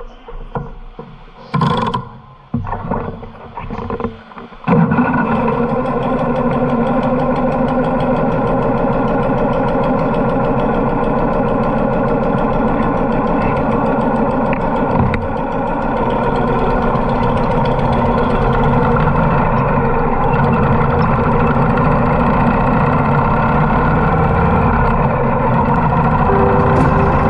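A motorcycle engine catches about five seconds in, after a few short bursts of noise, and then runs steadily at idle.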